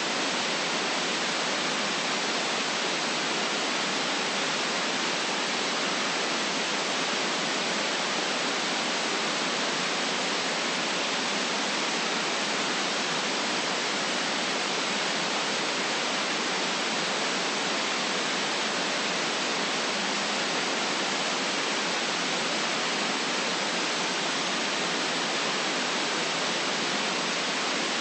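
Steady electronic white noise: an even, unchanging hiss with no deep rumble underneath.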